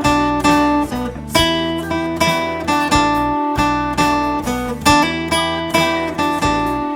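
Acoustic guitar playing, plucked and strummed notes with a fresh attack about every half second, no singing.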